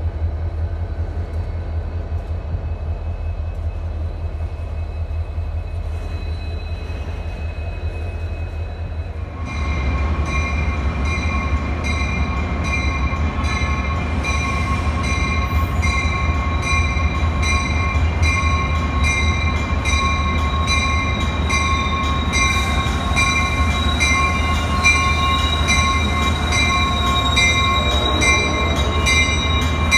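Double-stack intermodal freight train rolling past with a steady low rumble of wheels on rail. About a third of the way in this gives way to a Metra bilevel commuter train pulling into a covered station platform, with a steady high whine and regular clicks that quicken and grow louder as it draws near.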